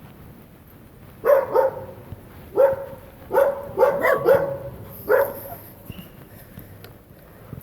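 A dog barking: about eight short barks in irregular bursts, some in quick succession, over a few seconds.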